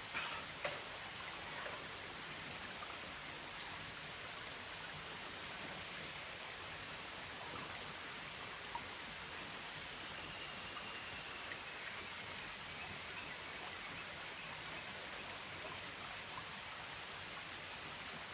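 A mountain stream rushing steadily, with water spilling past an erosion-control dam. A few faint clicks near the start.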